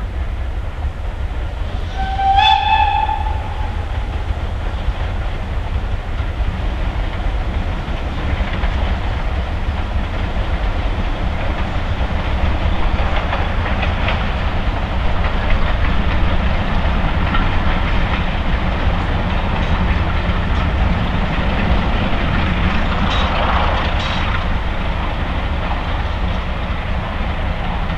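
A train climbing past, hauled by a Polish TKH 0-6-0T steam tank engine with a Class 33 diesel banking at the rear. A locomotive sounds one short whistle about two seconds in, the loudest moment; after that comes the steady rumble of the engines and coaches going by.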